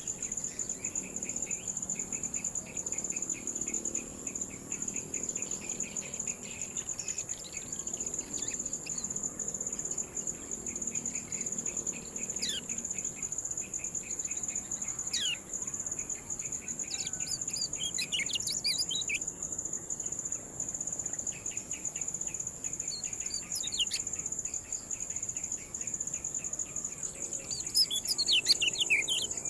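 Kecial kuning bird giving sharp, falling 'ciak' chirps: scattered singly, in a quick cluster around the middle, and again near the end. Behind it runs a steady high buzz and a fast, even pulsed chirring like crickets.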